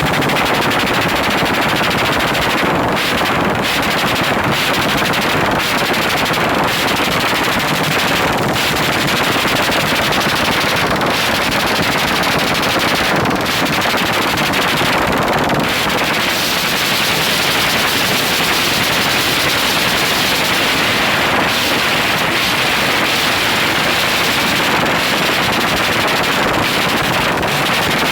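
Motorcycle engine held at full throttle against its rev limiter, a loud rapid crackling stutter with brief dips as the throttle is eased.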